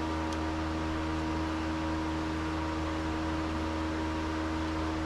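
Steady mechanical hum with an even hiss, with a faint click just after the start.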